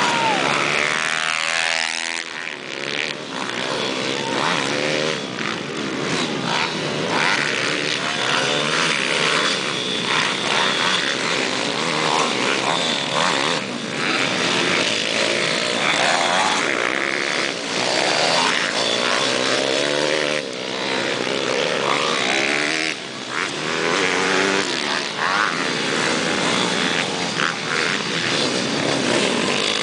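A pack of pit bikes racing, several small engines revving up and down over one another as the riders accelerate and shift, with no let-up.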